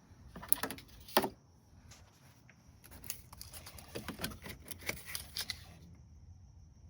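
Plastic clicks and rattles of wiring connectors being handled and pushed into a radiator cooling-fan assembly, with a sharp snap about a second in and a run of smaller clicks a couple of seconds later.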